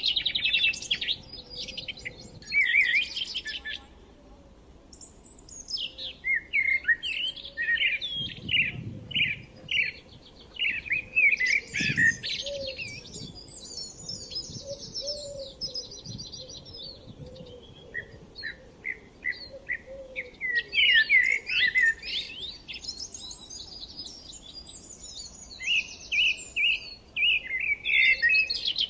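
Several small songbirds chirping and trilling in a chorus of quick, high-pitched notes that come in bursts, with short quieter gaps between them.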